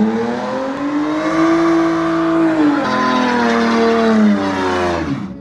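Modified car's engine revved high and held, dipping briefly about three seconds in before climbing again, then dropping off near the end.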